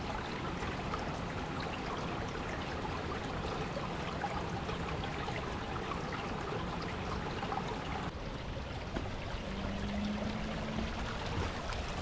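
Steady rushing and trickling of water, an even wash of noise with no pauses.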